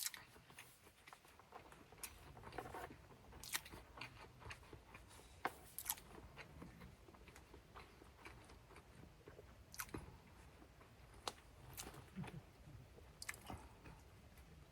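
A person eating: faint chewing, with scattered small clicks and crunches every second or so.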